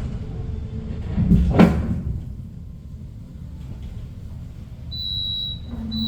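Low rumble inside a moving passenger train carriage, with a sharp knock about one and a half seconds in, then a steady high electronic tone and a low hum joining near the end.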